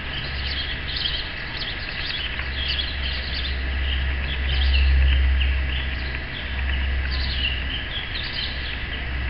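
Small birds chirping repeatedly over a steady low rumble, which swells briefly about halfway through.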